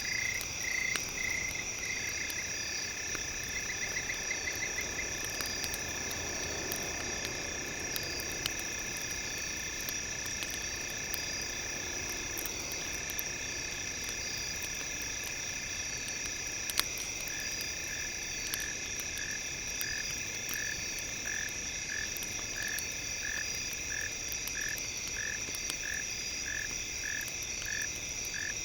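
Campfire crackle of small scattered pops under a bed of steady high tones, with one sharper pop about halfway. A rhythmic frog-like chirping call runs over it: a short fast trill early on, then regular chirps about one and a half a second through the second half.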